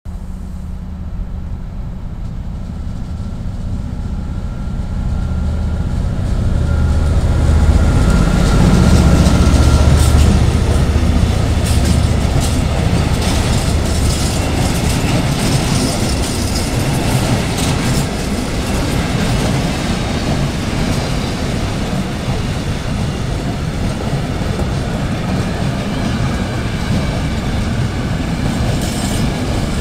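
Freight train passing: the locomotive's engine hum grows louder as it approaches and goes by about eight to ten seconds in. Then a long line of freight wagons rolls past with a steady wheel rumble and clatter.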